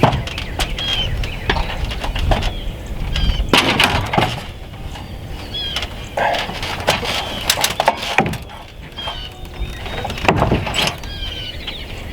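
Scattered knocks and clatter of building work on a wooden sheathed wall, loudest about a third of the way in and again near the end, with birds chirping in short repeated calls and low wind rumble on the microphone early on.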